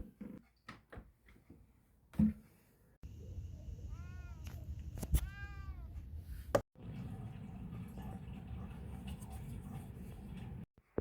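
A domestic cat meowing twice, two short calls that rise and fall in pitch about a second apart, over a steady low background hum. A few scattered knocks come before them.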